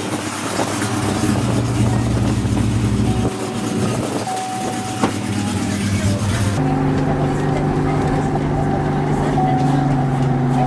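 A vehicle engine running steadily under a hiss of road and wind noise. About two-thirds of the way through the sound changes abruptly: the hiss drops away and the engine's tone holds steady.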